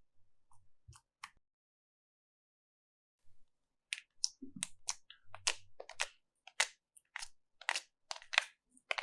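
Slime being pressed and squished by hand, giving a run of crisp crackling clicks about two a second from about four seconds in, after a few faint clicks and a quiet gap.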